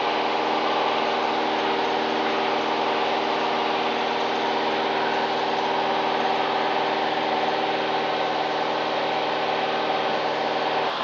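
Cessna 172's piston engine and propeller droning steadily in a climb, heard from inside the cabin.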